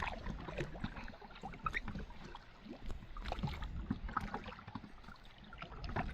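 Kayak paddling: paddle blades dipping and water splashing and dripping in small irregular knocks and splashes, over a steady low rumble.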